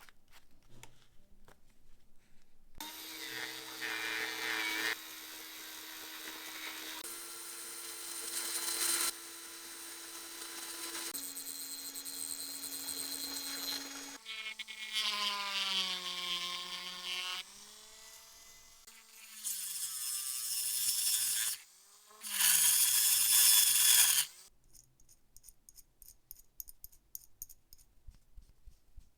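Small electric power tool whining in several stretches, holding one speed and then stepping to another. In its later bursts the pitch slides down and back up as it slows and speeds up, and it stops a few seconds before the end.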